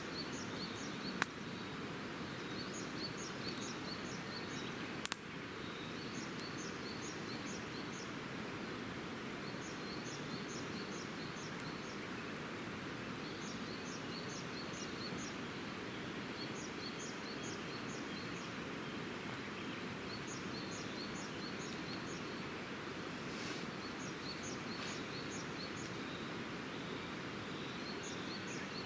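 Campfire burning, with two sharp wood pops in the first few seconds over a steady rushing background. A small bird repeats a short phrase of quick high notes every three or four seconds.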